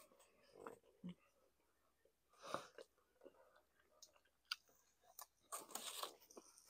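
Quiet, close-miked chewing and mouth sounds of people eating fried chicken and pizza: scattered soft smacks and clicks, with a short rush of breath-like noise about five and a half seconds in.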